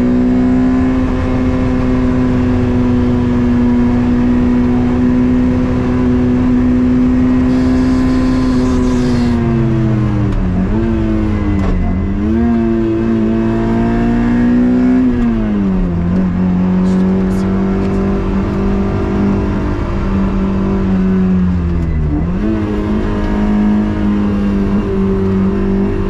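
Onboard sound of a 2ZZ-swapped Toyota MR2's 1.8-litre four-cylinder engine running hard at high revs. It holds a steady high note for about ten seconds, then the revs drop and climb back several times in quick succession near the middle, and once more later.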